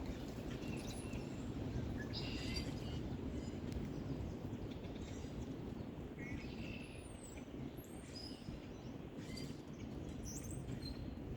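A flock of birds chirping in a tree: scattered short, high calls and a few quick whistled glides, over a steady low background rush of outdoor noise.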